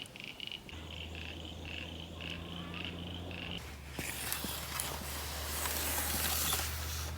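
Frogs calling in a run of short, high, pulsed calls, about three a second, that stop about three and a half seconds in. A steady low hum sits underneath, and a loud rushing hiss comes in about four seconds in.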